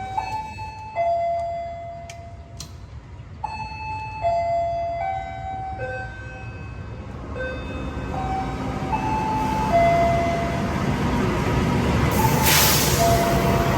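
A melody of steady chime-like notes plays while a train rumbles in, the noise building from about halfway through. A loud burst of hiss comes near the end.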